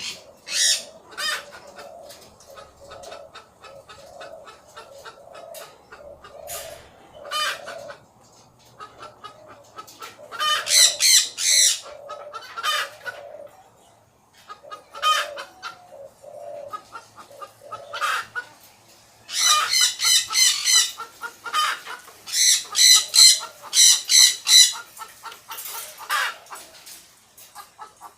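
Parrots squawking: loud harsh calls in clusters of rapid notes, over a softer low call repeating about twice a second.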